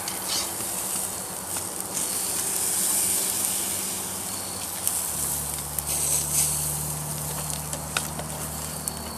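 Beef patties and bacon sizzling in a grill basket over a wood and charcoal campfire, their juices dripping into the fire, with a steady hiss and scattered sharp pops. A low steady hum joins about five seconds in.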